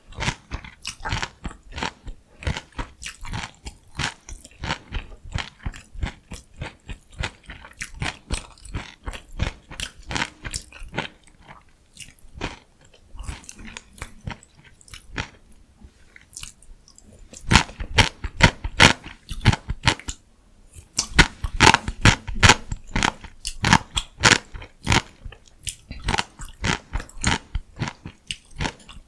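Close-miked chewing and crunching of crisp vegetable food (steamed cabbage rice wraps with pickled radish and pickled cucumber): rapid crackly bites and chews, louder for a few seconds past the middle and again later on.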